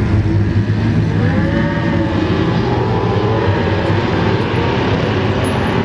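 Class One racing powerboat engines running hard: a loud, steady low rumble with several engine tones slowly rising and falling in pitch.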